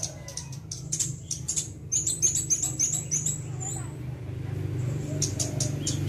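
Small songbirds chirping: rapid, very high, short notes, with a quick run of falling notes about two to four seconds in, a brief lull, then more chirps near the end, over a low steady hum.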